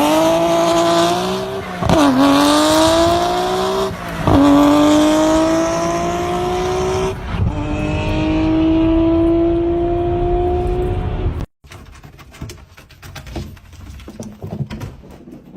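Racing car engine accelerating through the gears: its pitch climbs, drops at each upshift about 2, 4 and 7.5 seconds in, and climbs again. It cuts off abruptly about 11.5 seconds in, leaving faint scattered clicks and rustling.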